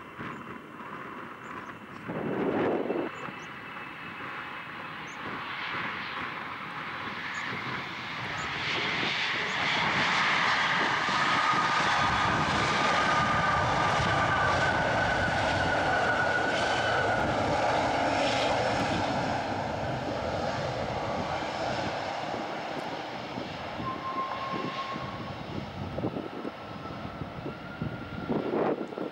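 Boeing 777F freighter's two GE90 turbofans passing on landing approach: a jet rumble with a whine that builds over several seconds, is loudest for about ten seconds, then slowly fades, the whine sliding down in pitch as the aircraft goes by.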